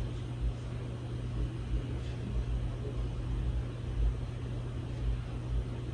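52-inch Hunter Low Profile II ceiling fan running, a steady motor hum with uneven low rumbles of moving air.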